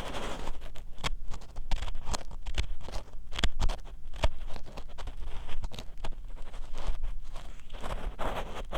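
Ear pick scraping and scratching inside the ear of a binaural 3Dio dummy-head microphone: close, irregular scratchy clicks, with longer rustling swells at the start and near the end.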